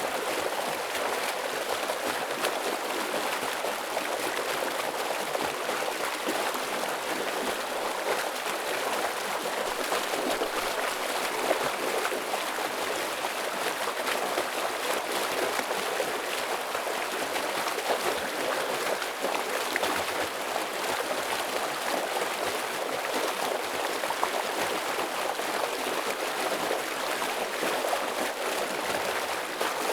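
A heavy stream of water flowing and rushing steadily over its bed, a dense, even rush with small splashing flickers throughout.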